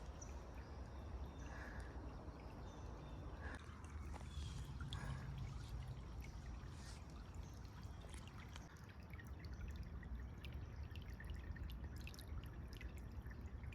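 Small woodland stream trickling faintly, with scattered footsteps on the trail.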